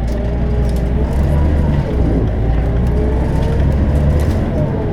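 Scania DC9 five-cylinder turbodiesel of a Scania K270UB bus pulling under load, its pitch climbing, dropping about two seconds in as the ZF Ecomat automatic gearbox shifts up, then climbing again.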